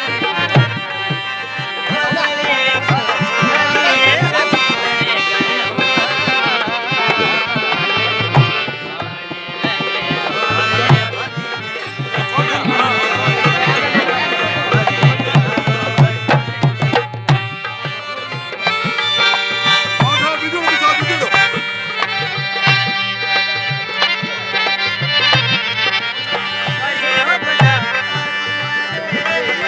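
Live Rajasthani folk music: a hand drum keeps a steady rhythm under a busy melody.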